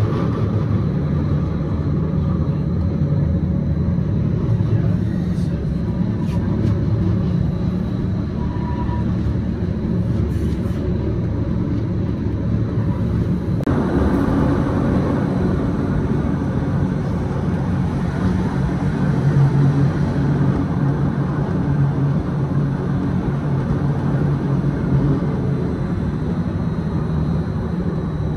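Electric rack-railway car of the Gornergrat Railway running uphill: a steady rumble of wheels and drive with a low motor hum. About halfway through, the running noise turns abruptly brighter and rougher.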